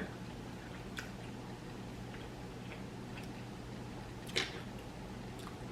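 Quiet room tone with a steady low hum, broken by a few faint isolated clicks, the loudest about four and a half seconds in.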